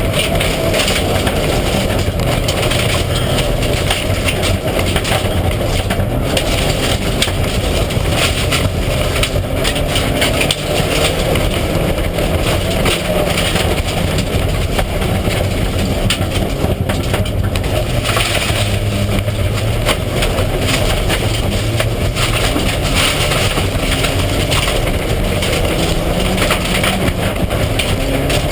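Mitsubishi Lancer Evolution IX rally car's turbocharged four-cylinder engine running hard, its revs rising and falling, over continuous loud road noise.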